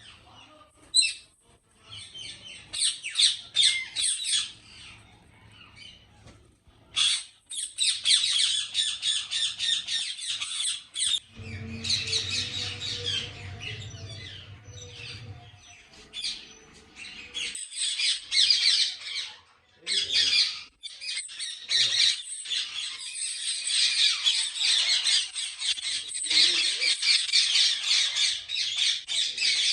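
Many ringneck (rose-ringed) parakeets squawking and screeching together in aviaries: scattered shrill calls at first, thickening after several seconds into a near-continuous chorus.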